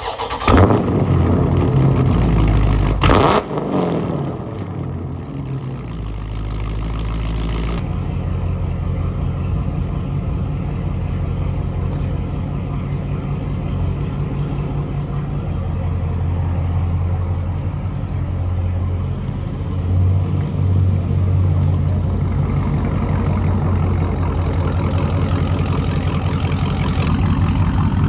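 Straight-piped Dodge Charger Scat Pack's 392 (6.4-litre) HEMI V8 on a cold start: it fires with a loud bark, is blipped once about three seconds in, then idles steadily and loud through the open exhaust.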